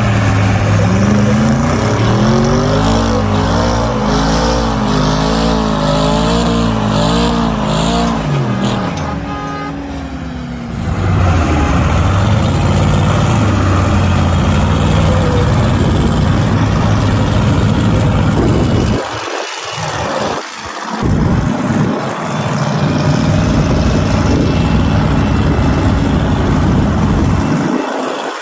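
Vehicle engines under hard throttle, a Mercedes-AMG G63 against an old tractor. For the first several seconds the engine pitch rises and falls repeatedly. After a brief dip the engines run steadily, and the sound drops out briefly a couple of times near the end.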